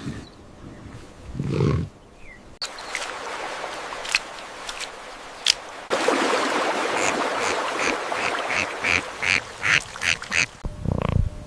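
Animal calls, ending in a run of rapid, short, repeated calls from about six seconds in.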